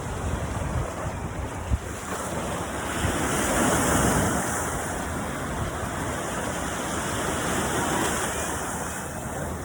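Ocean surf washing onto the beach, one wave swelling louder a few seconds in, with wind buffeting the microphone.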